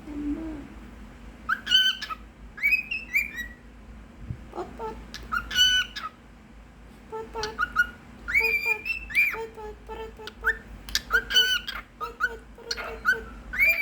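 Pet cockatiel whistling its song: a string of short warbling whistles and pitch glides in clusters, with brief pauses between them.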